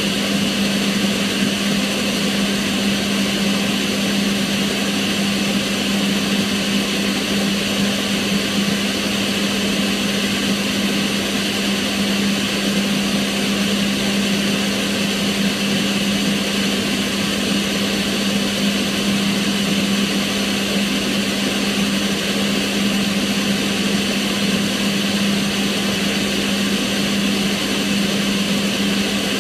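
Kitchen range hood extractor fan running steadily: an even rush of air with a constant low hum.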